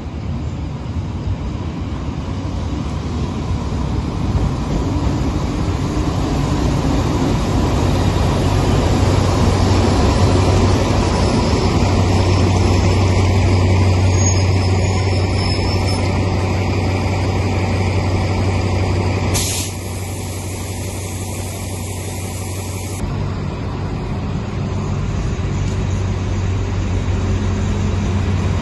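Alsthom diesel-electric locomotive running as it brings a local train into the station: a steady deep engine hum that grows louder and then drops about two-thirds of the way through. As it drops, a sharp hiss of air starts suddenly and cuts off after about three and a half seconds, like the air brakes venting.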